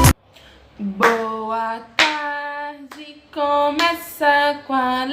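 A woman singing a children's greeting song in long held notes, with a few hand claps. A music track cuts off just as it begins.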